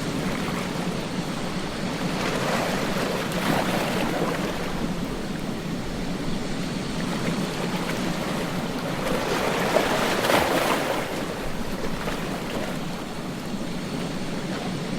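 Ocean waves breaking on a beach, a continuous wash of surf that swells louder about three seconds in and again about ten seconds in.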